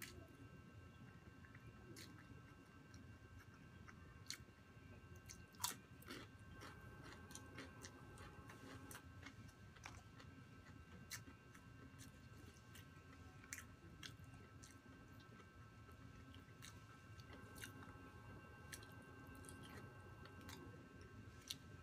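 Soft, close-miked chewing and biting of food, with scattered sharp clicks and crackles from the mouth and one louder crack about five and a half seconds in. A faint steady whine sits underneath.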